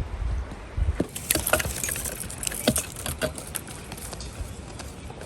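Low rumbling thumps, then a quick run of clicks and clatters of small hard objects being handled, thinning out over the last second or so.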